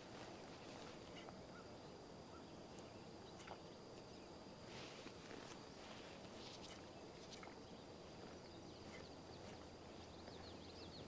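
Faint early-morning outdoor ambience: a steady high-pitched tone with scattered bird chirps, a run of quick chirps near the end, and a few soft clicks.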